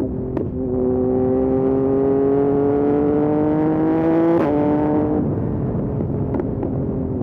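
Yamaha MT-09 SP's three-cylinder engine through a Dominator aftermarket exhaust, pulling steadily up through the revs for about four seconds. The revs then drop sharply at a gear change, and the engine settles lower about a second later as the throttle eases.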